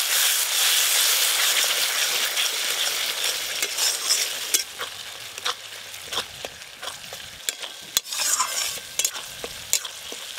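A curry masala with curd sizzles in a metal kadai while a metal spatula stirs and scrapes it, frying the masala down until the oil separates. The sizzle is loudest in the first few seconds and then thins out, leaving sharp scrapes and taps of the spatula against the pan.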